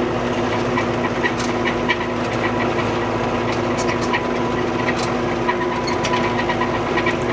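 Tractor engine running steadily under load, with a steady hum and scattered sharp clicks and rattles.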